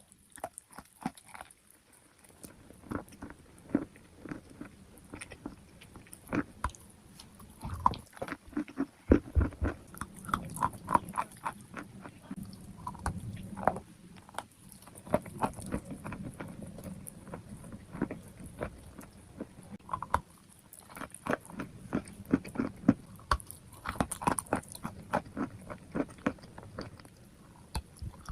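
Close-up biting and chewing of crunchy chalk and clay: a dense, irregular run of sharp crunches and crackles.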